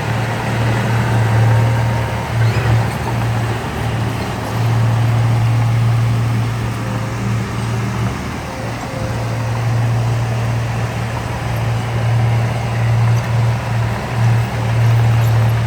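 Heavy diesel engine of earthmoving machinery running steadily, a low drone with slight flutter.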